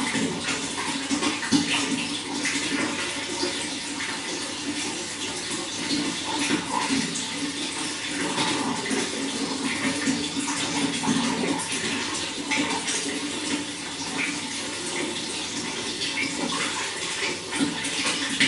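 Water running steadily, with a continuous rush and many small splashes.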